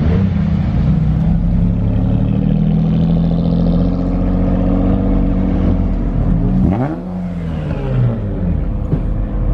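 Car engine idling with a steady low rumble, then revved once about seven seconds in, its pitch rising and falling back to idle.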